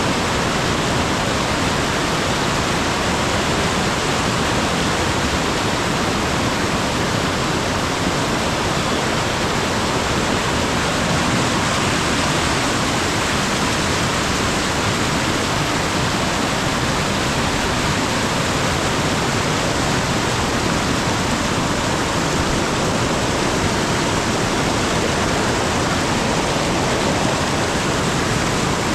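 Mountain stream water flowing and rushing steadily.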